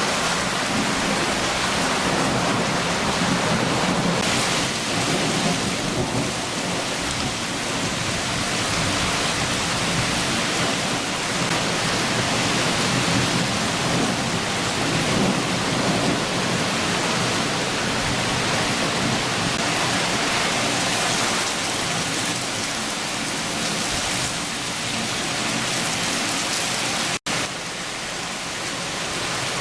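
Steady, heavy rain of a summer shower, with low thunder rumbling underneath. The sound cuts out for an instant near the end.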